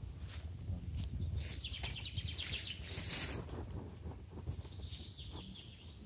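Birds chirping, with a quick run of repeated notes about two seconds in, over the faint crackle and snap of a small twig fire.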